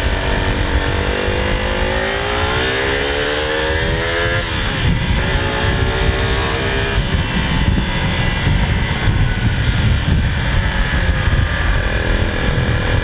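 Motorcycle engine accelerating while riding: its pitch climbs for a few seconds, drops sharply at a gear change about four and a half seconds in, climbs again, then settles into a steady cruise over a heavy low rumble.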